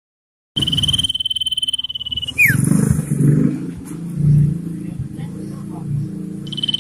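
Common iora calling: a long, level high whistle of nearly two seconds that drops away in a quick downward slur, then a second long whistle starting near the end. A low rumble sits underneath, loudest between the two whistles.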